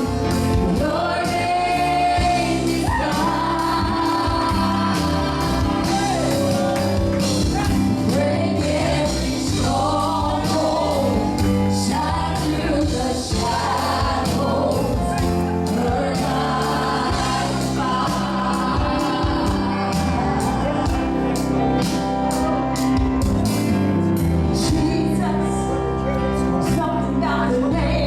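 Gospel worship song: voices singing over a band with held bass notes and a steady drum beat.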